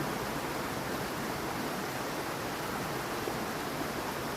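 Mountain stream water rushing steadily over rocks, an even hiss of running water.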